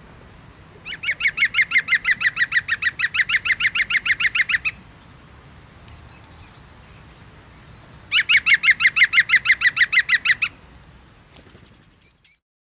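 A bird calling in two long bouts of rapid, evenly repeated notes, about ten a second, the first lasting nearly four seconds and the second, after a pause, about two and a half seconds.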